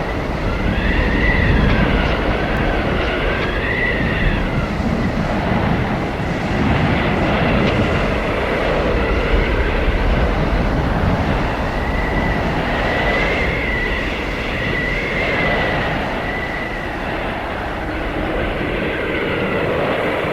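Blizzard wind blowing hard: a steady rushing roar with a high, howling whistle that rises and falls in pitch in slow waves, strongest in the first few seconds and again past the middle.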